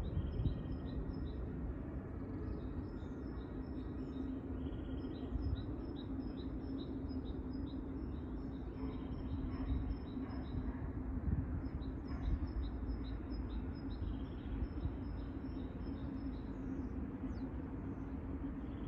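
Small birds chirping, short high notes repeated steadily, over a steady low outdoor rumble with a faint constant hum.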